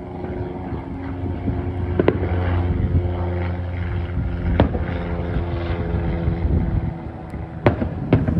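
Distant aerial firework shells bursting: four sharp bangs, one about two seconds in, one past the middle and two close together near the end. A steady low engine-like hum runs underneath.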